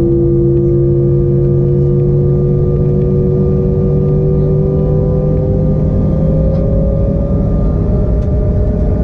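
Embraer E175's twin GE CF34-8E turbofan engines heard from inside the cabin: a steady engine whine over a low rumble, its pitch rising slowly as the engines spool up.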